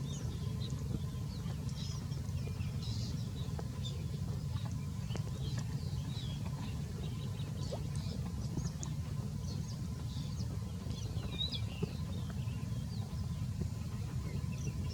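Small birds chirping: many short, faint high chirps and quick glides scattered through, over a steady low rumble.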